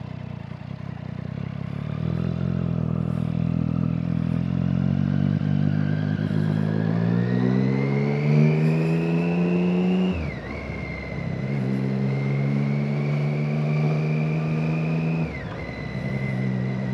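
Motorcycle engine pulling away, rising steadily in pitch as it accelerates, then dropping sharply about ten seconds in as it shifts up a gear. It runs steadily after that and drops again near the end with another shift.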